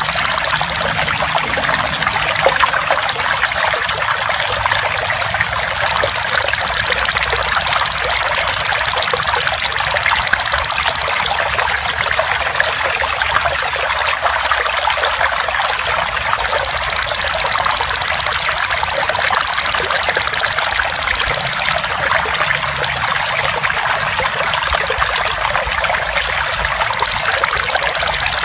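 Water trickling steadily under the high, buzzing song of a belalang emas (golden katydid), which sings in stretches of about five seconds with five-second pauses between them; the insect buzz is the loudest part.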